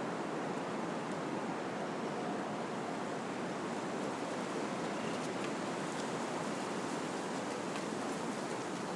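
Wind blowing through trees, a steady rushing of leaves with a few faint light ticks.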